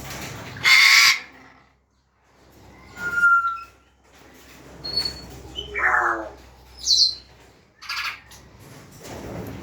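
African grey parrots calling: a loud harsh squawk about half a second in, then a string of shorter whistles and squawks, one sliding down in pitch about six seconds in.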